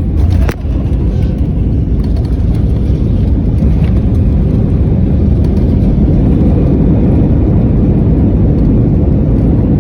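Airbus A319 heard from inside the cabin during landing: a loud, steady low rumble of engines, airflow and rolling. There is a brief sharp knock about half a second in.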